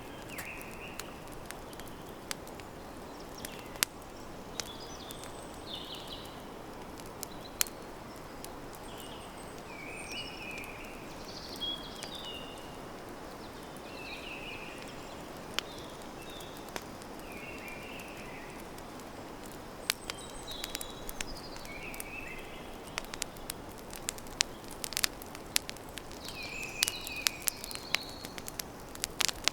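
Campfire crackling, with sharp pops scattered throughout and coming more often in the last third, over a steady low rush from the fire. Birds chirp repeatedly in the background.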